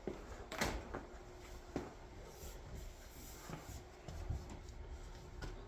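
Faint handling noises: soft rubbing with a few light knocks and a low thump.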